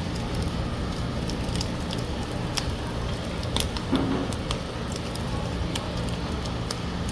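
Wood fire crackling under grilling duck: scattered sharp pops and ticks over a steady hiss.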